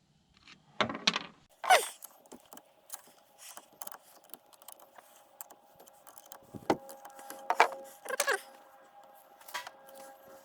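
Metal parts and hand tools clinking, clicking and scraping as a tractor starter motor is taken apart, with a few sharper clicks among them. A faint steady hum comes in about two seconds in and stays beneath.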